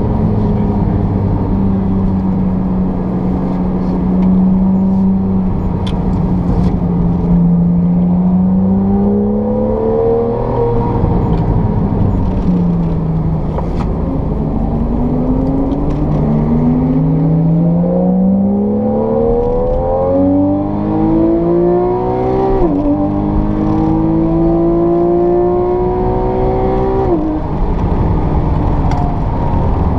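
Porsche 911 Carrera GTS (991) naturally aspirated flat-six heard from inside the cabin under hard driving: it runs at steady revs for several seconds, then pulls up through the rev range again and again, the pitch climbing and dropping sharply at each upshift.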